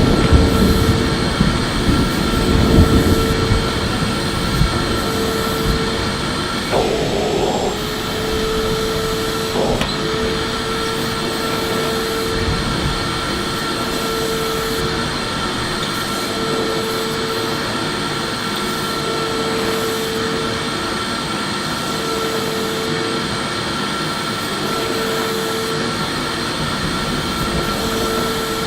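Electric vacuum cleaner running steadily: a constant motor whine over the rush of air, a little louder and deeper in the first few seconds.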